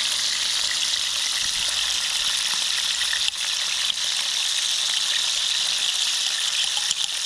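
Octopus pieces frying in hot oil in a frying pan: a steady, even sizzle that dips briefly twice midway.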